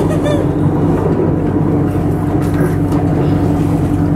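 Bangkok BTS Skytrain car heard from inside, a steady electric hum over rail rumble as the train runs.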